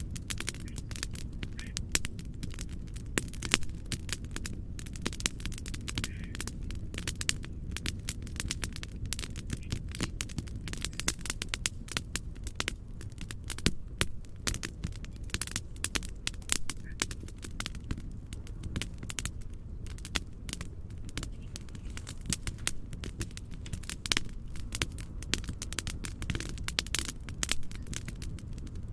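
Wood fire crackling and popping with many irregular sharp snaps, over a steady low rumble of noise.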